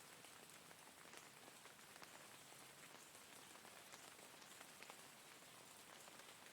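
Faint, steady rain: an even hiss with scattered single drops ticking sharply every second or so.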